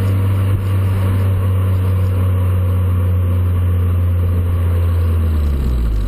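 VW Golf 4's exhaust through a stainless-steel JOM aftermarket rear silencer, the engine held at steady raised revs, then the revs dropping away near the end.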